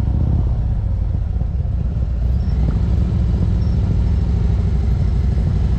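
Motorcycle engine running, a steady low rumble with no change in pitch.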